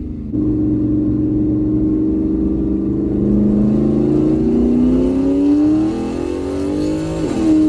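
Single-turbo Mustang's engine accelerating hard, heard from inside the cabin. The note steps up just under half a second in, climbs steadily in pitch with a growing hiss, then drops sharply near the end as the throttle comes off.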